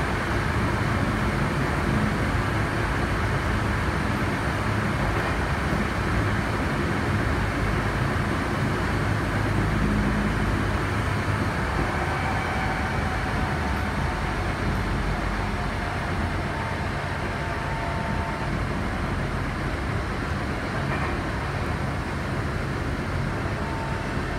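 Tokyo Metro 03 series chopper-controlled electric train heard from inside the car while running at speed: a steady rumble of wheels on rail and running gear. About halfway through the noise eases a little and faint steady whining tones come in for a few seconds.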